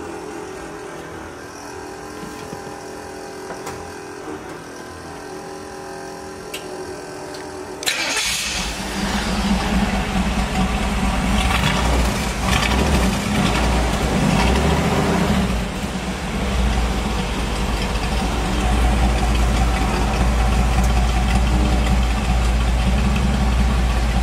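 Chevrolet 283 small-block V8 with side-exit exhaust starting up: after a faint steady hum, it fires about eight seconds in and runs loudly. The revs rise and fall for several seconds before it settles into a steady idle.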